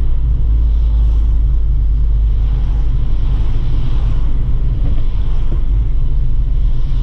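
Stock 2018 Abarth 595 Pista's turbocharged four-cylinder engine driving at an even pace, a deep steady drone with road rumble and no revving.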